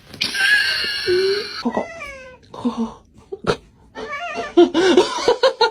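A cat meowing and caterwauling: a long call in the first second and a half, a call falling in pitch about two seconds in, then a quick run of short yowls in the last two seconds.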